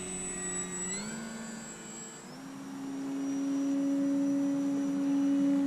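Electric motor and propeller of an FMS Ranger 1800 RC plane in flight, a steady whining drone. Its pitch steps up twice and it grows louder from about two seconds in as the throttle comes up.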